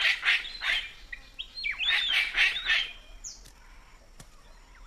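Palm cockatoos calling: a quick run of short whistled and rasping calls with rising and falling glides, dense for the first three seconds and then dropping away to a few faint sounds.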